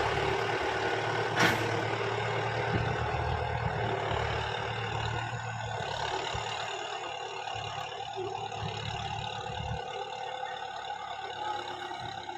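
Kubota tractor's diesel engine running steadily as it backs up across the field, growing fainter and dropping away near the end. A single sharp click comes about a second and a half in.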